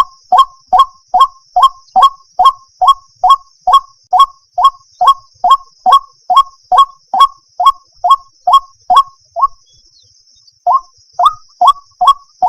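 White-breasted waterhen calling: a fast, evenly paced series of short harsh notes, a little over two a second, breaking off for about a second near the end and then starting again. A call that the uploader gives as a female calling a male.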